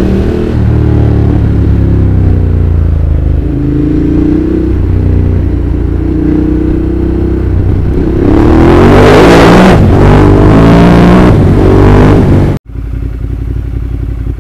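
Ducati Monster's L-twin engine under way, its pitch rising and falling with the throttle. About eight seconds in it gets louder in a hard acceleration lasting some four seconds, then the sound cuts off abruptly and gives way to a quieter, steadier engine sound.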